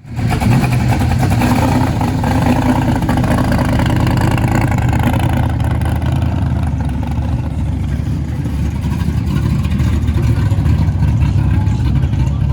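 Car engine running with a deep, rough exhaust, cutting in sharply at the start and holding steady.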